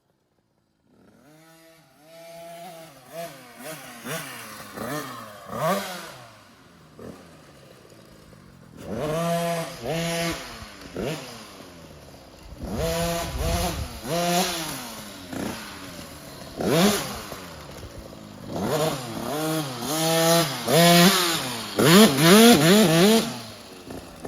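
Husqvarna TC 50's small two-stroke engine being ridden around a dirt track, the revs climbing and dropping back over and over as the rider accelerates and slows. It gets louder towards the end. The engine is running freshly jetted with a 90 main jet.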